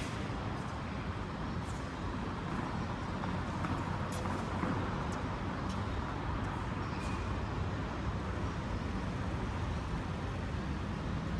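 Steady background rumble and hiss with a few faint, scattered ticks.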